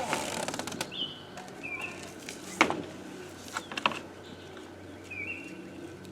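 Clatter and a few sharp knocks, the loudest about two and a half seconds in, from the side pieces being fitted onto a chicken tractor's wooden frame. A small bird chirps repeatedly in the background.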